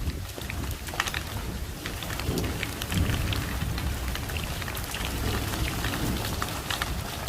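Marbles rolling down a wooden Haba slope marble run: a steady low rumble with many quick clicks and clacks of marbles against the wooden track.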